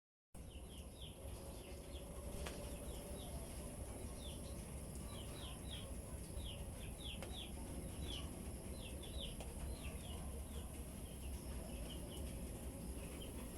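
Small birds chirping: many short, high chirps, each sliding downward, coming in quick runs, over a low steady rumble.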